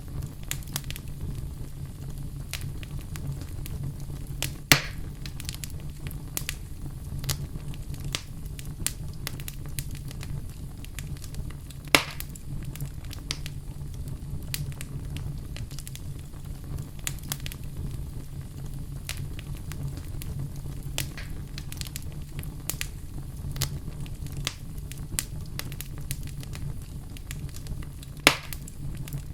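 Wood fire burning in a fireplace, crackling with many small ticks over a low steady rumble. Three sharp loud pops stand out: one about five seconds in, one near the middle and one near the end.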